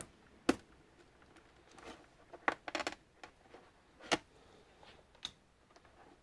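Scattered sharp clicks and knocks of tools and parts being handled while an all-in-one desktop computer is taken apart, with a quick run of clicks about two and a half seconds in.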